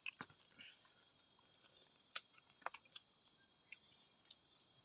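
Faint steady chorus of crickets and other insects, with a few light clicks.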